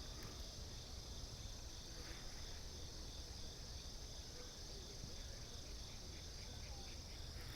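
Insects chirring steadily in a high, even drone, over a faint low rumble.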